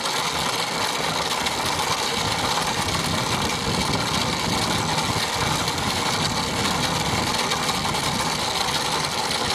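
Small 40cc mini dirt bike engine running steadily and loudly.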